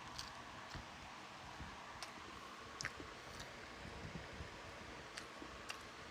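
Eating sounds: a handful of short, sharp clicks and smacks at irregular intervals over a steady faint hiss, as someone chews and eats fried rice and fried chicken.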